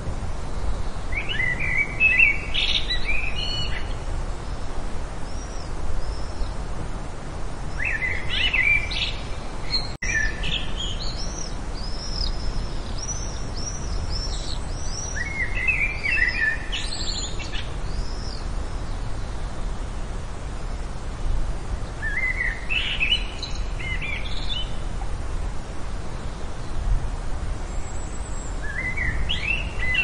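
Wild birds singing: a short warbled song phrase comes about every seven seconds, with higher, thinner twittering between phrases in the middle, over steady low outdoor background noise.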